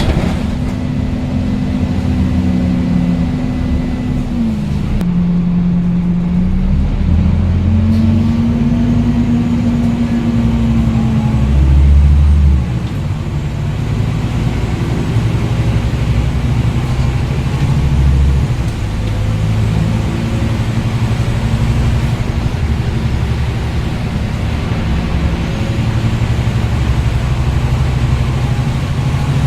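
Scania N230UD double-decker bus's five-cylinder diesel engine accelerating, its pitch rising and dropping as the automatic gearbox changes gear, loudest about twelve seconds in, then running steadily under load.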